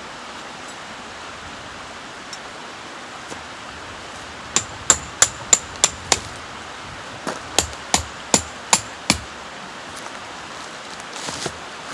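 Hammer strikes in two quick runs of about six blows each, roughly three a second, with a short pause between, over the steady rush of a stream.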